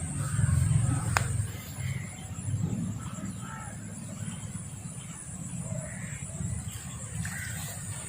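Birds calling in short, scattered chirps over a steady low rumble, with a constant high-pitched whine and a single sharp click about a second in.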